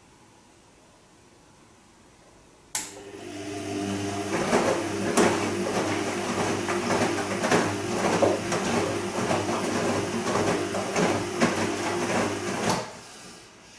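Bosch Serie 2 Vario Perfect washing machine in the wash phase of its Silk program: about three seconds in, the drum motor starts with a click and turns the drum for about ten seconds, with a steady motor hum over the irregular swishing of the tumbling wash, then stops suddenly.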